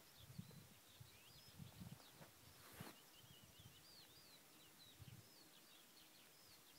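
Faint, distant small birds chirping and twittering high-pitched, many short calls throughout, over a quiet open-air background with a few soft low thumps and a brief hiss about halfway through.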